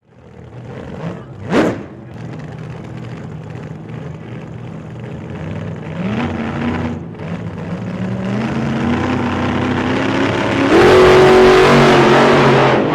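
Motorbike engine running and revving, its pitch stepping up three times and loudest near the end.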